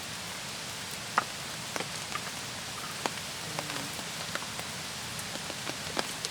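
Steady light rain hiss, with scattered sharp ticks and pops, the loudest about a second in.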